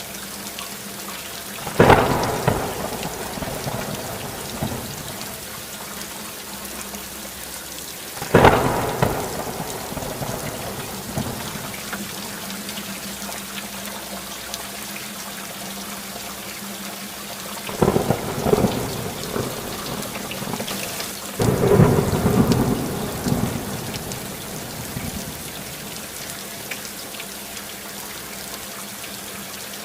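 Steady rainfall with thunder: two sudden claps, about two and eight seconds in, each rolling away over a couple of seconds, then a longer rumble that comes in two surges from about eighteen to twenty-four seconds.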